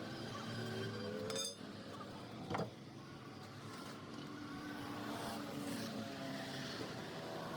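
Vehicle engines on the road speeding up, rising in pitch, with a single sharp knock about two and a half seconds in.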